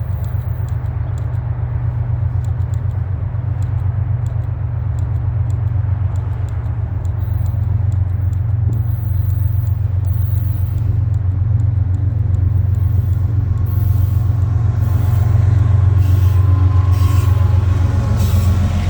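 Norfolk Southern freight train's diesel locomotives rumbling, growing slowly louder. Faint higher ringing tones and hiss from the train join near the end.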